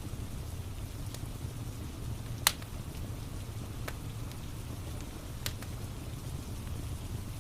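Wood fire crackling, with one sharp loud pop about two and a half seconds in and a few fainter pops, over a steady low rumble of rain-and-fire ambience.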